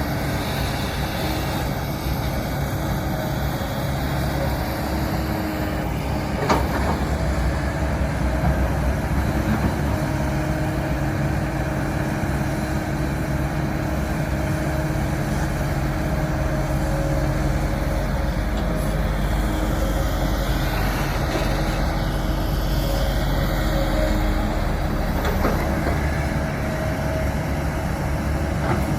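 Heavy diesel earthmoving machinery, an excavator or bulldozer, running steadily under work, with a sharp knock about six seconds in.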